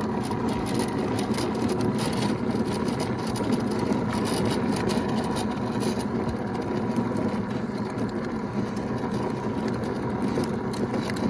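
Lawn mower's small gasoline engine running steadily.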